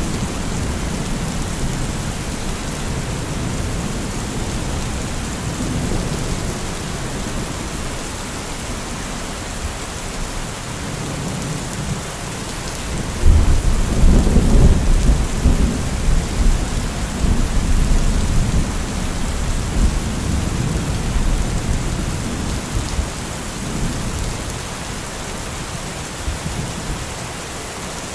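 Steady heavy rain with rolling thunder. About halfway through, a loud deep thunderclap breaks in and rumbles on for several seconds before fading back under the rain.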